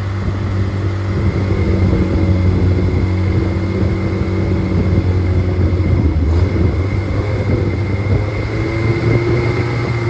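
Freshly rebuilt Triumph Spitfire 1500 inline four-cylinder engine running steadily, with a thin steady whine above the engine note.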